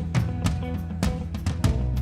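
Live band playing, with a steady drum kit beat of kick and snare strokes under held instrument notes.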